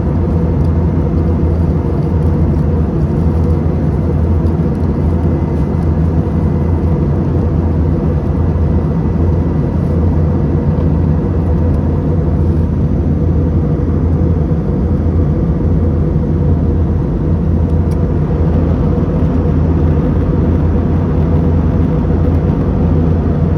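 Steady in-flight cabin noise of a UNI Air airliner: engine and airflow drone heard from inside the passenger cabin. It is a low, unchanging rumble with a few held humming tones.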